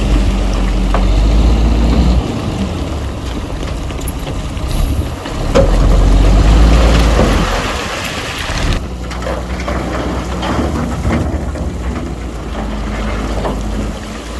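Diesel engine of heavy earthmoving machinery running under load, with a rumble and scattered clatter of rock and soil being moved. The low rumble swells about five and a half seconds in, then drops back near eight seconds.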